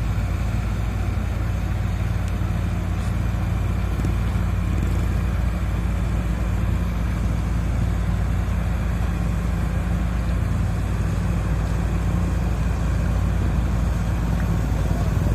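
Kobelco SK200 hydraulic excavator's diesel engine running steadily as it digs soil.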